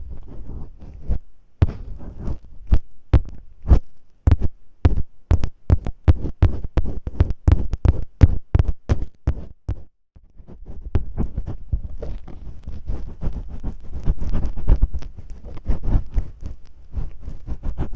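Masking tape handled against a microphone, ear-cleaning style: sharp crackling taps about three a second for the first half, a brief drop about ten seconds in, then denser rubbing and rustling with scattered crackles.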